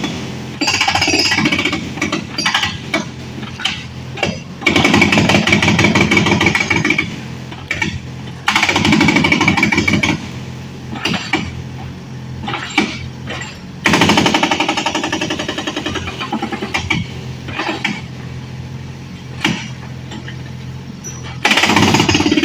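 Excavator demolishing a house: loud bursts of rapid hammering, each about two seconds long, come several times, with scattered knocks and a steady engine hum between them.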